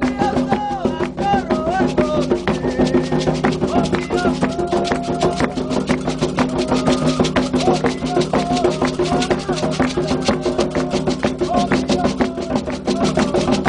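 Candomblé ritual music: hand drums beating a fast, dense rhythm with other struck percussion, under voices singing a chant.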